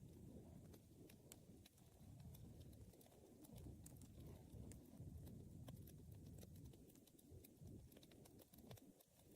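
Wood fire burning quietly, with irregular small crackles and pops over a low, uneven rumble.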